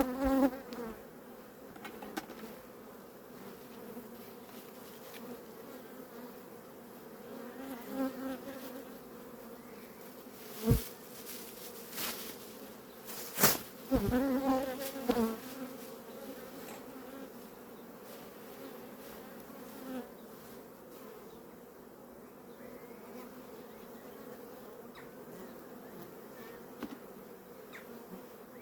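Honeybees buzzing steadily from an open hive, swelling louder as bees fly close past, with a few sharp knocks near the middle.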